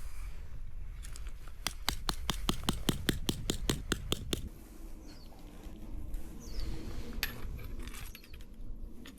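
A quick run of sharp mechanical clicks, about five a second for nearly three seconds, then quieter rustling and handling sounds.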